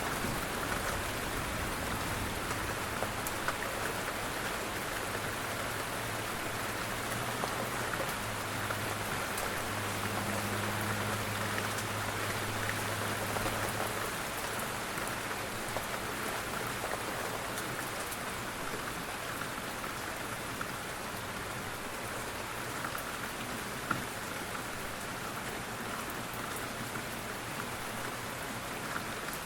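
Steady rain falling on a surface, an even hiss with scattered individual drop ticks. A faint low hum runs underneath through the first half and fades out.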